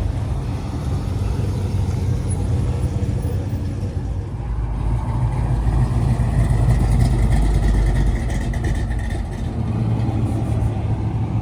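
A classic car's engine rumbling as it drives past, growing louder to a peak about two-thirds of the way through, then easing off.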